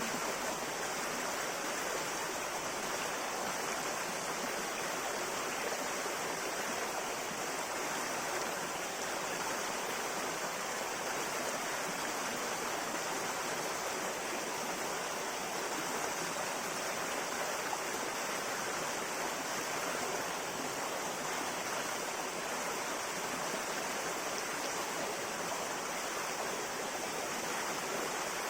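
River water flowing over rocks: a steady, even rushing and babbling with no breaks.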